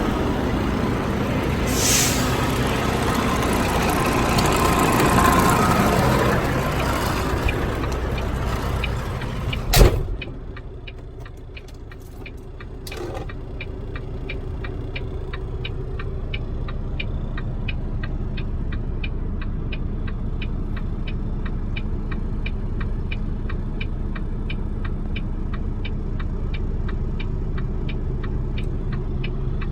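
Semi truck's diesel engine running, then dropping to a steady idle after a sharp, loud snap about ten seconds in. Through the idle comes an even ticking, about three ticks a second.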